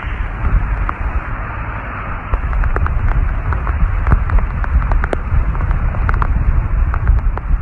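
Raindrops pattering on a surface as scattered sharp clicks over a heavy rumble of wind on the microphone; the patter gets denser and louder about two seconds in.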